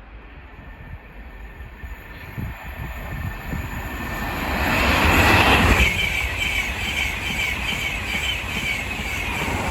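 LNER InterCity 225 set, class 91 electric locomotive 91107 with its coaches, passing through the station. The noise builds to its loudest about five seconds in, then holds steady with a high whine and a regular beat of wheels over rail joints.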